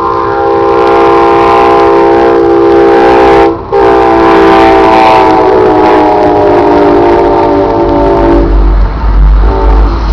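Northstar commuter train's locomotive air horn sounding a long, loud multi-note chord. The horn breaks off once for a moment about a third of the way in, then its pitch sags as the train passes. Near the end a heavy low rumble of the passing train comes in, with another short horn blast.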